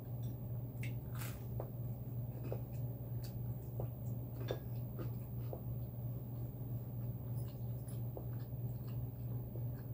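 Close-miked eating: chewing with scattered soft mouth clicks and smacks over a steady low hum.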